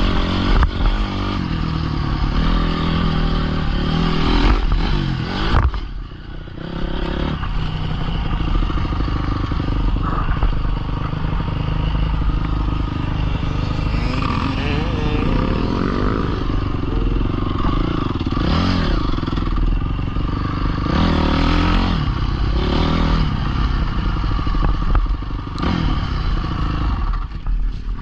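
Pit bike engine running under changing throttle, revving up and easing off again and again, with a short lull about six seconds in.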